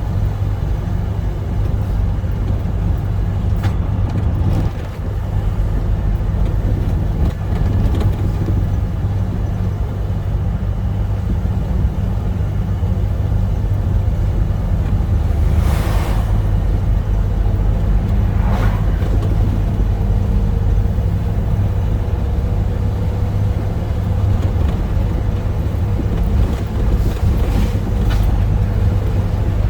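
Scania truck engine with a straight-pipe exhaust running steadily on the highway, a deep continuous rumble. Two short hissing noises come about halfway through, and a faint tone climbs slowly toward the end.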